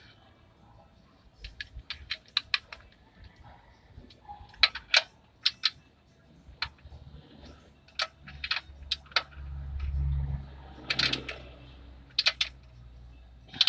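Socket ratchet on an overtight 17 mm oil drain plug: scattered sharp clicks and metal knocks as the tool is fitted and worked, with a low rumble from about eight to eleven seconds in.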